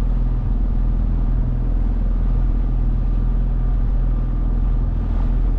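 9.8-horsepower outboard motor running at a steady speed, pushing the small boat along.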